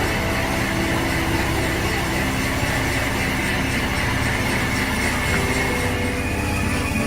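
Workshop machine running steadily: a continuous mechanical rumble with a steady whine over it.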